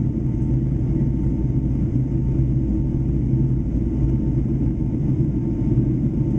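Steady cabin noise of a Boeing 757-300 in flight: a constant low rumble of engines and airflow, with a faint steady whine above it.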